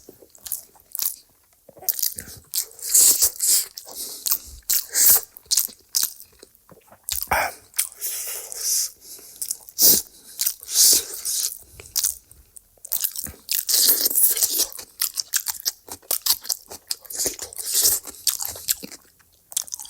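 A person biting and chewing food, with a long irregular string of sharp crunches and mouth sounds.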